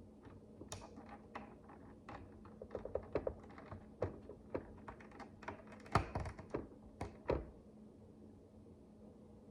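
Micro bricks (miniature building bricks) clicking and tapping as they are handled and pressed together: a run of small, irregular clicks, the sharpest about six and seven seconds in, dying away a couple of seconds before the end.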